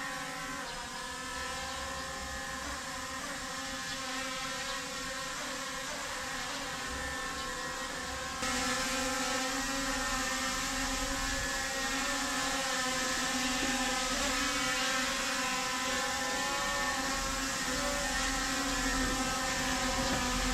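A small folding toy drone's propellers whining steadily as it flies indoors, getting louder about eight seconds in.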